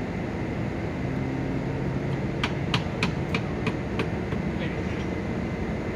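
Locomotive running steadily at a standstill, with a quick run of about six sharp metallic clicks from about two and a half to four seconds in.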